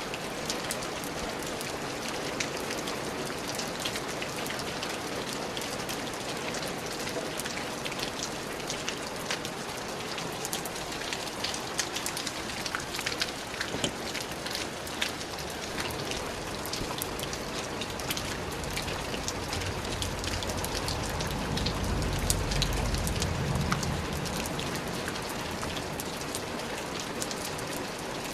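Steady rain falling on a surface, with a dense patter of individual drops. A low rumble swells and fades about two-thirds of the way through.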